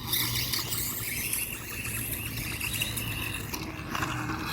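Small electric motor and drivetrain of an RC dirt bike whining as it runs, the pitch rising a little about a second in and then holding.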